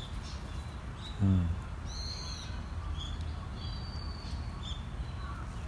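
Birds chirping and calling now and then, with one short low call dropping in pitch about a second in.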